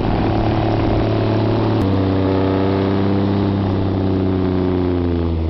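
Snowplow vehicle's engine running under load, its pitch dropping a step about two seconds in and then sagging slowly toward the end.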